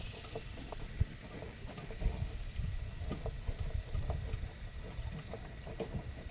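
Pigs grunting softly and moving about, with many short clicks and knocks over a low, uneven rumble.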